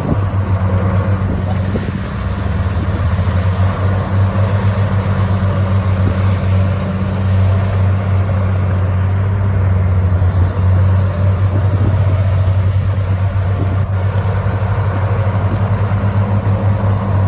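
Komatsu crawler bulldozer's diesel engine running hard, a steady low drone with a fast, even pulsing beat.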